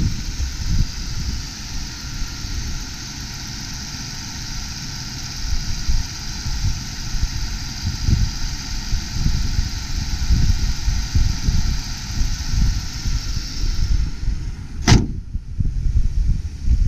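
1995 Ford Taurus engine idling smoothly with an uneven low rumble and a steady high hiss; the hiss drops away near the end, and a single sharp bang comes just after.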